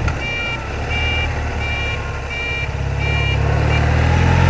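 A reversing alarm beeping two high tones together, about every 0.7 s, stopping about three and a half seconds in. Under it runs the BMW R80RT's flat-twin engine, rising in pitch near the end as it accelerates.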